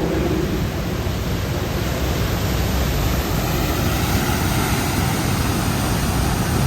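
Vehicle driving through deep floodwater: a steady rush of churned and splashing water over the low run of the engine.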